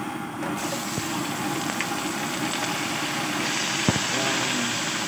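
Raw chicken pieces sizzling as they are tipped from a steel pot into hot oil in a wok, with a clank of the pot against the wok near the end. A steady engine hum runs underneath.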